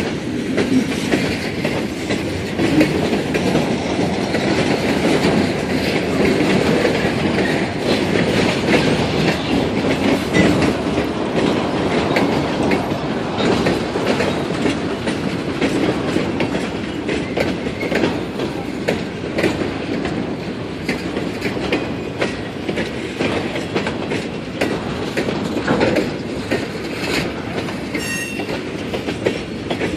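A train rolling past, its wheels clacking steadily over the rail joints. A brief high-pitched wheel squeal comes near the end.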